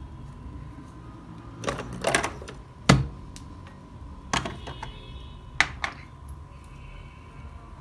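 Six or so sharp knocks and clatters of things being handled, the loudest about three seconds in, over a faint steady hum.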